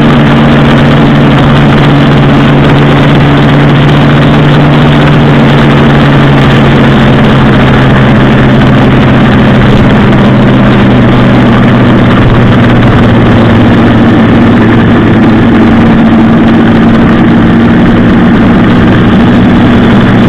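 Motorcycle engine running at a steady, even pitch, very loud.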